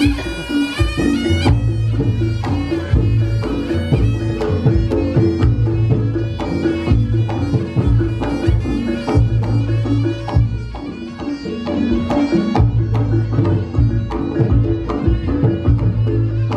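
Reog Ponorogo ensemble music: the nasal, wavering melody of the slompret shawm, loudest in the first second and a half, over busy kendang drum strokes and repeating deep booming low notes.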